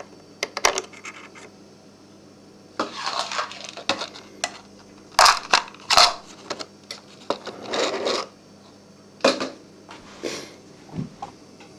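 Light metallic clinks, knocks and short scrapes of hand tools and small metal parts as a projector's metal mounting plate is worked loose from the body, several sharp clicks spread irregularly between the scrapes.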